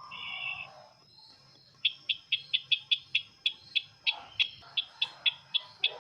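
Calls of the sisintar bird, a recording of the kind used as a lure for bird trapping: a brief multi-note call at the start, then from about two seconds in a fast run of sharp, high chips, about five a second.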